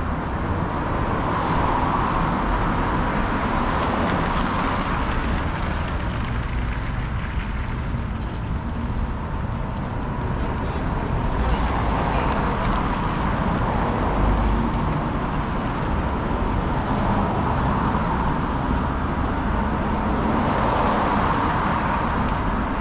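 City street traffic: a steady rumble of cars driving by, swelling as vehicles pass close, about two seconds in and again near the end.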